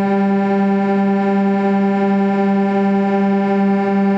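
A single loud, steady pitched tone with a rich, buzzy timbre, held unchanged throughout like a held horn or synthesizer note.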